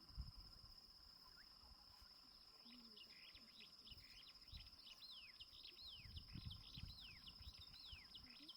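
Faint steady high-pitched insect trill, like a cricket, with a bird calling in a rapid run of short falling chirps starting about three seconds in. There are also a few soft low thumps.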